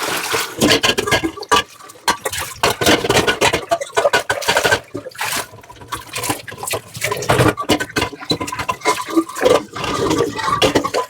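Tap water running and splashing over dishes in a kitchen sink, coming in uneven bursts with scattered clicks as the dishes are rinsed and handled.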